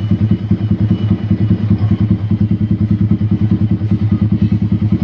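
Yamaha R15 V3's single-cylinder engine idling through its exhaust, a steady, evenly pulsing deep note, the "bass bulat" (round bass) exhaust sound.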